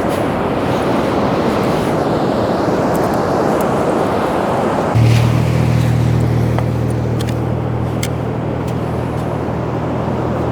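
Wind and surf noise on the beach, then about halfway through a steady low hum with overtones comes in, a motor vehicle engine running nearby.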